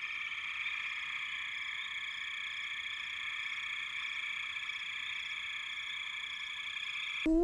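A dense, steady, high-pitched chorus of many calling animals, a continuous buzz without pauses that cuts off suddenly near the end.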